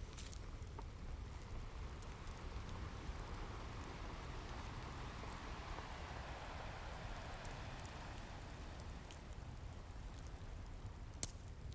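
Ocean waves washing in as a steady rush, one wave swelling and fading through the middle, with a few sharp crackles from a wood fire, the loudest near the end.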